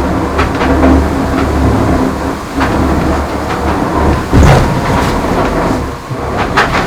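Foiling IMOCA racing yacht at high speed: a loud, steady low rumble of hull and foils through the water, with a faint hum and scattered clicks and knocks, and one loud thump about four and a half seconds in.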